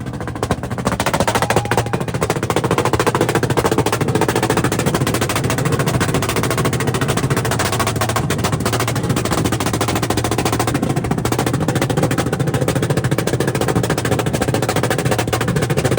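Tuned import cars held on two-step launch-control rev limiters. The engines sit at a fixed high rev with a fast, machine-gun-like crackle of exhaust pops that runs without a break.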